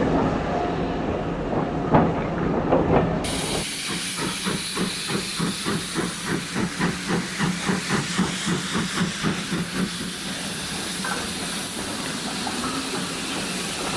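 Rail noise with a couple of knocks, then a steam locomotive working, its exhaust beating about three times a second for some six seconds. The beats then give way to a steady hiss of steam.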